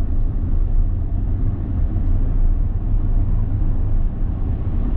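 Steady low rumble of a car driving on the road, the engine and tyre noise heard from inside the cabin.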